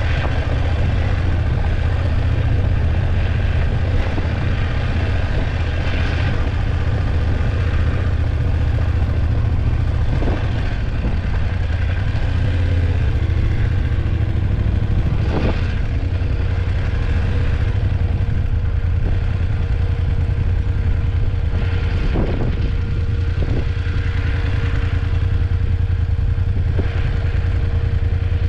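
BMW F850GS motorcycle's parallel-twin engine running steadily under way, with a few sharp knocks and clatter over the road surface.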